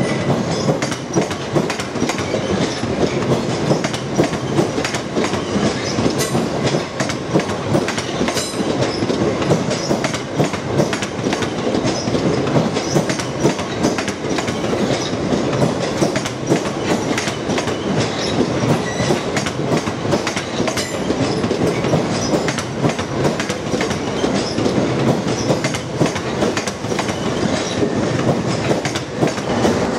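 Electric multiple unit passing slowly on the adjacent track, its wheels running with a steady rumble and an irregular clickety-clack over rail joints and pointwork.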